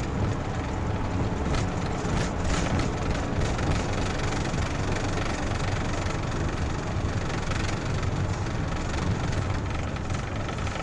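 A car engine running hard with steady road and wind noise, as in a high-speed police pursuit, with a few brief knocks about two seconds in.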